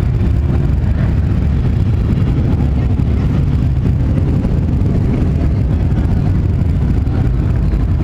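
Steady low rumble of motorcycle engines running, with no break or change.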